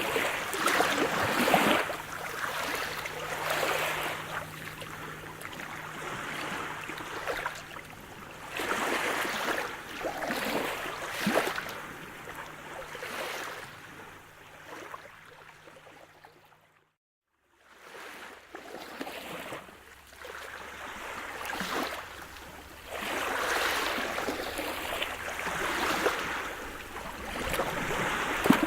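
Sea surf: waves breaking and washing in, swelling and ebbing every few seconds. A little past halfway it fades out to a second of silence, then returns.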